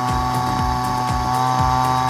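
Small engine running steadily at a constant speed, with irregular low thumps underneath.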